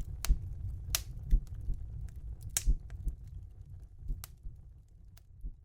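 Wood fire crackling in a fireplace, with irregular sharp pops over a low rumble of flames. It fades out near the end.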